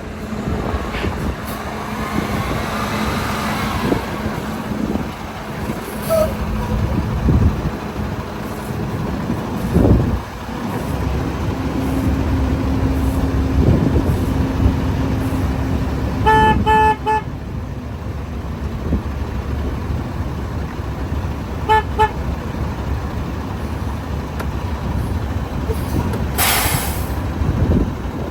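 International Prostar semi truck running and driving with a steady low engine rumble. The horn sounds in a quick series of short toots past the middle, with one more short toot a few seconds later, and there is a brief hiss of air near the end.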